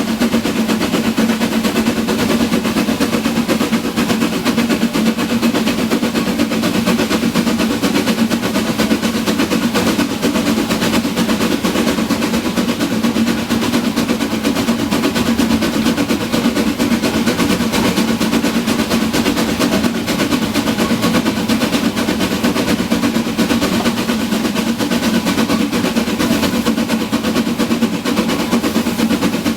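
Narrow-gauge train running steadily: a dense, rapid clatter over a constant low hum, with no let-up.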